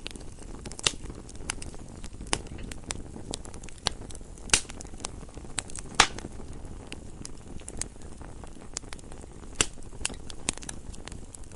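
Campfire burning, with irregular sharp crackles and pops over a steady low rush of flames; the loudest pops come about four and a half and six seconds in.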